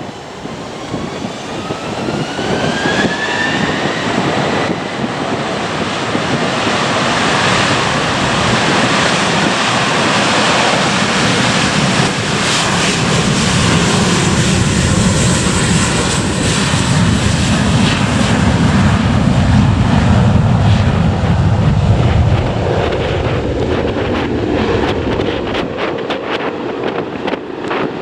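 Airbus A321's two IAE V2500 turbofan engines spooling up to takeoff thrust, a whine rising in pitch over the first few seconds, then a loud jet roar on the takeoff run whose deep rumble swells about two-thirds of the way through and then eases.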